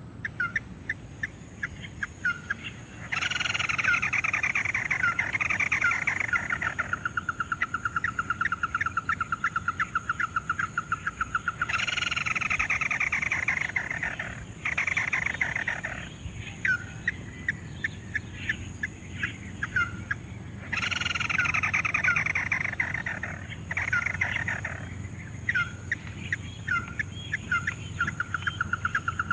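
Ruddy-breasted crake calls played over and over as a lure: a falling trill, then a long run of quick, even notes. The same sequence repeats about every nine seconds, as from a looped recording.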